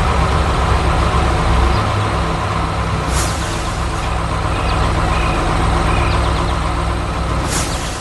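Heavy construction machinery running: a steady diesel engine rumble, with two brief hisses about three and seven and a half seconds in.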